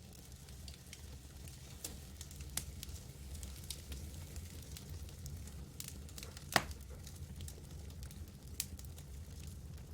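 Campfire burning: wood crackling with irregular sharp pops over a steady low rumble, one pop standing out louder about two-thirds of the way through.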